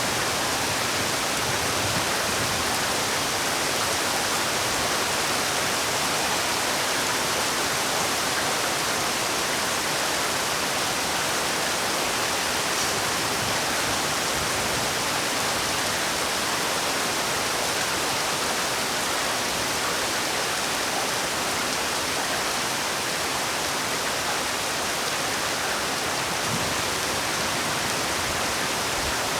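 Heavy rain falling: a steady, dense hiss without distinct drops.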